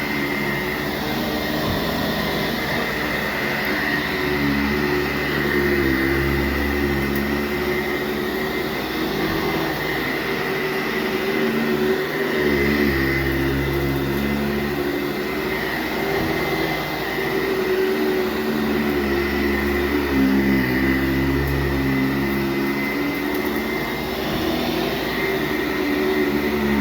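Sanitaire SC684G commercial upright vacuum running on a bedroom carpet: a steady motor hum with a high whine, its pitch and level wavering slightly every few seconds as it is worked over the pile.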